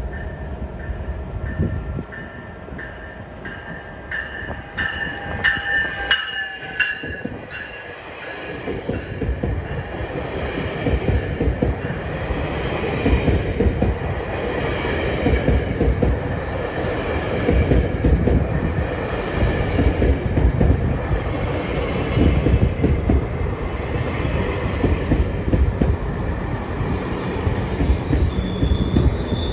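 GO Transit commuter train arriving at a station: bilevel coaches roll past with a rumble of wheels on rail that builds from about eight seconds in. High steady tones sound in the first several seconds as the train approaches, and a high wheel squeal rises near the end as it slows.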